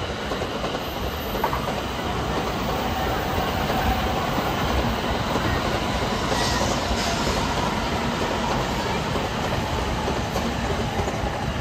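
N700-series Shinkansen train running past on the tracks below, a steady running noise of wheels on rail with a faint whine above it.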